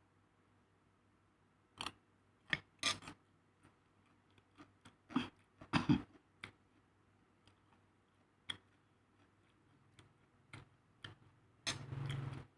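Eating sounds from a meal of rice with fried anchovies and petai: irregular sharp clicks and taps, with a longer, noisier sound a second before the end.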